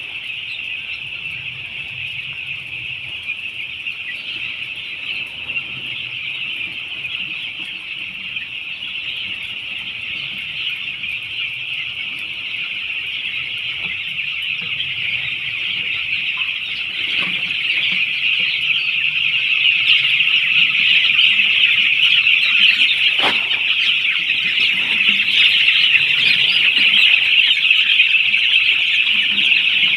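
A large flock of young poultry chicks peeping all at once, a dense high-pitched chorus that grows louder after about fifteen seconds.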